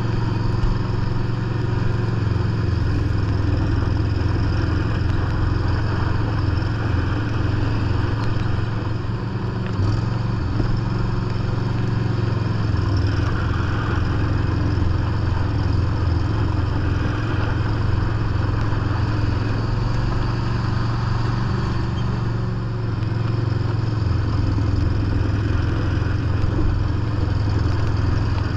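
John Deere lawn tractor engine running steadily under load, driving a 44-inch front-mounted snow blower through heavy snow. The engine dips slightly twice, about ten seconds in and again near twenty-two seconds.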